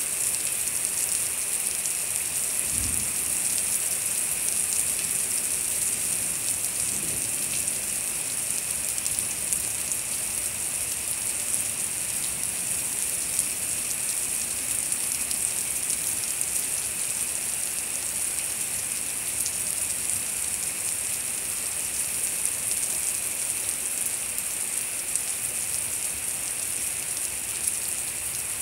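Torrential rain pouring steadily onto a lawn and a flooded paved driveway, a dense even hiss of drops splashing into standing water.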